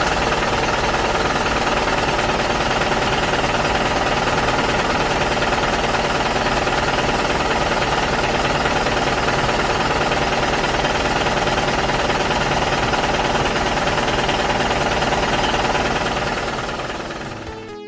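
A loud machine running with a fast, steady rattle, fading out over the last couple of seconds.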